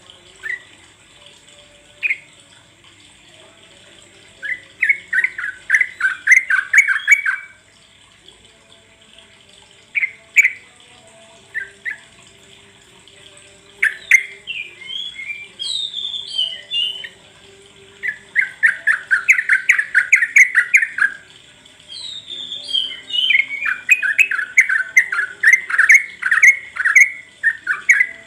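Yellow-vented bulbul (trucuk) song: several phrases of rapid, bubbly chattering notes, the longest about three seconds, with short higher slurred whistles between them. The song is played as a lure to draw other trucuk into singing.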